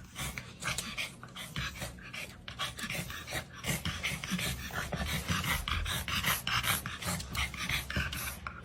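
A dog panting: a quick, even run of short breathy huffs.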